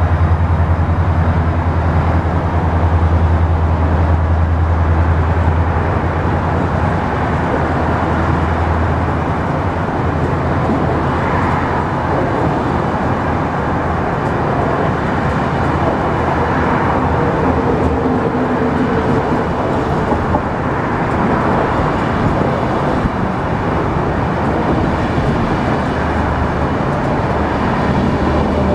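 Israel Railways passenger train pulling out past the platform. The diesel locomotive's low engine drone is strong for the first several seconds and then falls away, leaving a steady rumble of the coaches rolling over the rails.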